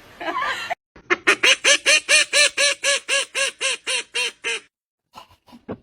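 A bird giving a fast, even run of about twenty short pitched calls, roughly five or six a second, starting about a second in and stopping abruptly about a second before the end.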